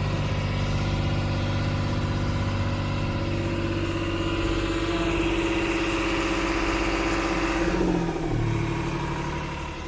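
Tour boat's engine running steadily, then slowing down about eight seconds in, with its pitch gliding lower and the sound getting quieter.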